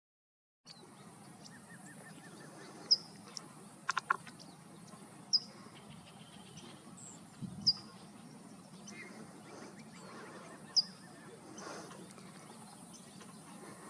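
A small bird giving a short, sharp high call, repeated four times about every two and a half seconds, over a steady outdoor background hiss.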